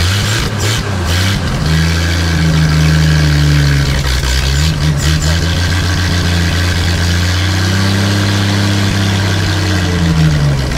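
Studebaker Champion six-cylinder flathead engine running unmuffled through an open flexible exhaust pipe. It has just been started with a newly installed distributor and the timing set only roughly. Its speed rises about two seconds in, holds steady, and drops back near the end.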